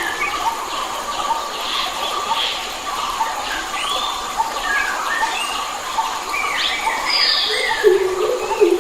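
Several wild forest birds singing and calling at once: short whistled, sliding phrases overlap throughout. Low, drawn-out calls come in near the end.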